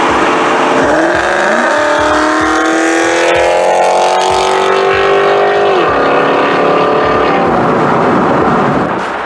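V8 exhaust through long-tube headers, a Bassani off-road X-pipe and Magnaflow mufflers, revving. The pitch climbs about a second and a half in, holds high for about four seconds, then falls back near the end.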